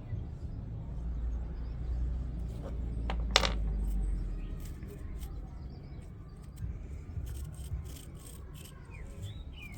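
Removed washing machine bearings being handled: light clicks and rubbing over a low rumble, with one sharper click about three and a half seconds in.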